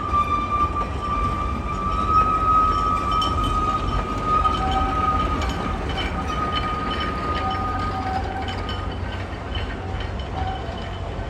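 Narrow-gauge train rolling along with a steady low rumble and a high, wavering wheel squeal that fades out after about eight seconds, with scattered light clicks from the wheels and rails.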